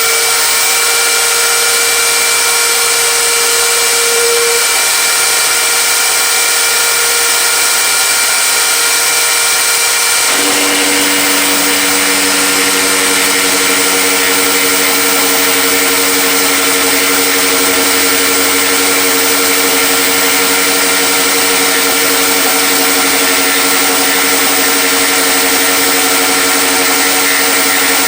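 Electric power tool motor running at full speed, a loud, steady whine with a hiss, after spinning up just before. About ten seconds in, lower hums join in, as if the machine is taking a load.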